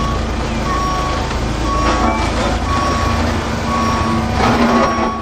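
A vehicle's reversing alarm beeping steadily about once a second, over the low rumble of a running engine.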